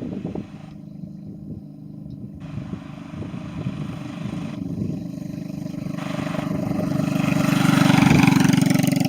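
Single-cylinder 7 hp Duromax engine of a Doodle Bug mini bike running under way as the bike is ridden, a steady note that grows louder to its loudest about eight seconds in, then eases a little.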